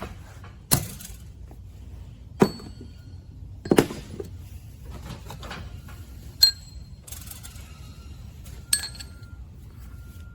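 Five sharp metal-on-metal clinks, irregularly a second or two apart, each with a brief high ring.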